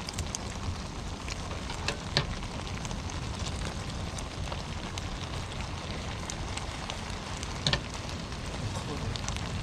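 Rain falling: a steady hiss with scattered ticks of drops, and a couple of louder drops about two seconds in and near the end.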